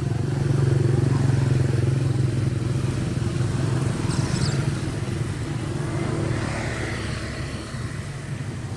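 A motor vehicle's engine, most likely a motorcycle, running steadily. It is loudest about a second in and fades gradually toward the end.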